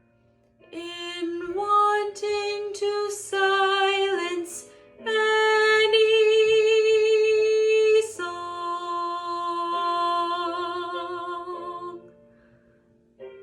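A woman's classical voice singing an art song with vibrato over a quiet accompaniment: a few short phrases, then two long held notes, after which the voice stops and the accompaniment goes on alone.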